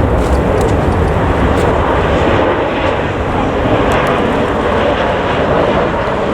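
Jet airliner engines running loud and steady, a dense rushing noise heaviest in the low end.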